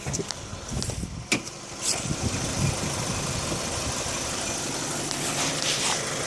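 Honda CR-V engine running at a steady idle with the hood open, settling in about two seconds in, after a single sharp click.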